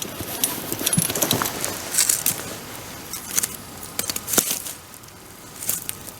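Wood bonfire crackling, with irregular sharp pops and snaps over a low steady hiss.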